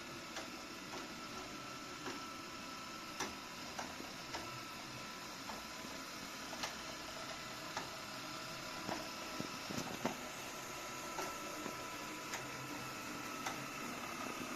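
Robot vacuum running quietly with a faint steady motor whine, and irregular small ticks and clicks, like brushes or wheels picking up and knocking debris.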